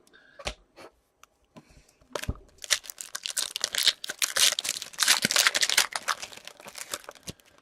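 Foil wrapper of a hockey card pack being torn open and crinkled, a dense crackling rustle that starts about two seconds in and runs for about five seconds, after a few light clicks of card handling.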